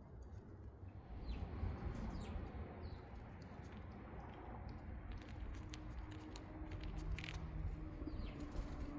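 Wild birds giving short, falling chirps several times over a steady low rumble, with a few light clicks.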